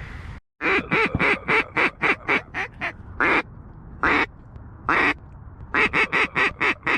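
Duck quacking, loud and close: a fast run of short quacks, then three single drawn-out quacks, then another fast run of short quacks. It starts right after a brief dead-silent gap about half a second in.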